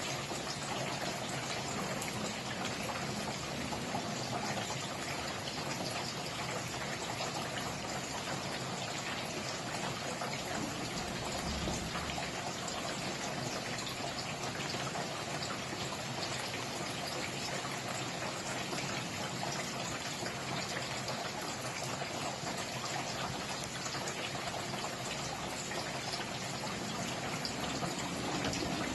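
Steady rain falling, a dense even patter of many drops with water trickling and running.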